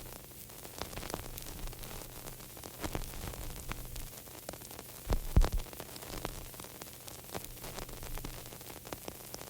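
Crackling static with a steady electrical hum under it, scattered clicks throughout, and a short cluster of low thumps about five seconds in.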